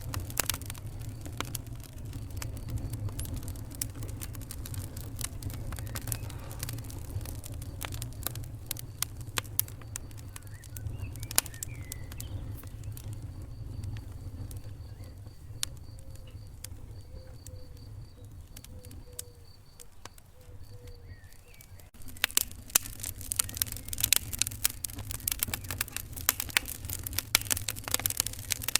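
Wood fire crackling in a fireplace: irregular sharp pops and snaps over a steady low rumble. The crackling grows thicker and louder from about three-quarters of the way through.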